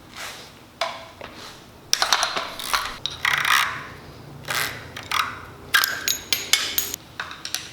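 Metal tools and parts clinking, clanking and scraping in a quick irregular run of short knocks while a dirt bike's front end is taken apart. The knocks are sparse at first and come thick and loud from about two seconds in.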